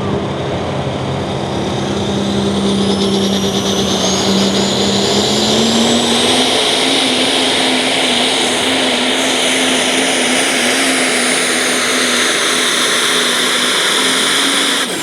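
Super stock diesel pickup truck running at full throttle on a pull, its loud engine drone stepping up in pitch a few seconds in. A high turbocharger whistle rises steeply over it.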